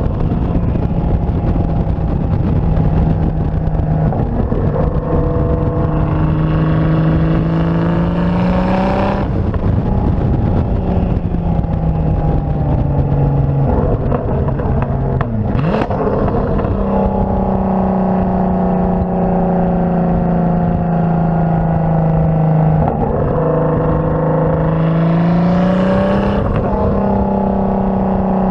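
Turbocharged 3.2-litre VR6 engine of a VW R32 running through a catless downpipe and catback exhaust while under way. The note holds mostly steady, then twice climbs in pitch over a few seconds as it accelerates, each climb breaking off abruptly.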